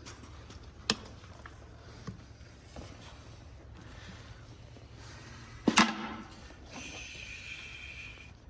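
A farrier's trimming tool cutting down the hard, dry, overgrown heel of a horse's hoof. There is a sharp crack about a second in and a louder crack near six seconds, as pieces of hard heel wall give way.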